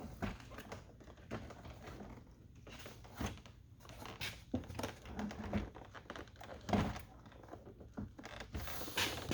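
Plastic door trim panel of a GMC Sierra truck being handled and worked over the door lock: irregular light knocks, clicks and rattles, with a louder knock about two-thirds of the way through.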